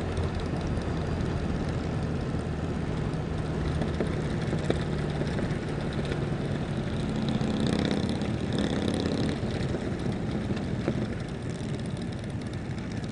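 Motorcycle engines running at low road speed in a large group ride, a steady low hum with road and wind noise. The engine sound swells for a couple of seconds about eight seconds in.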